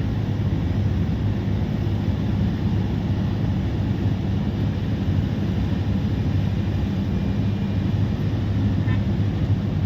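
Diesel engine of a heavily loaded truck running steadily at low speed on a hill climb, a constant low drone without revving or gear changes.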